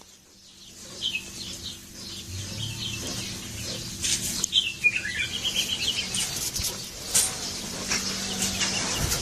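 Birds chirping in short runs of quick high notes, the busiest run about four to five seconds in, over a steady low hum.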